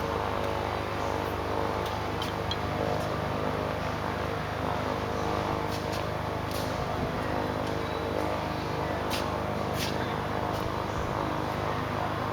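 A steady machine hum made of several even tones, with a few light clicks and taps scattered through it.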